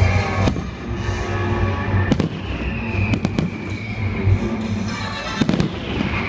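Fireworks display: several sharp bangs of bursting shells, a pair about three seconds in and a quick cluster near the end, with music playing.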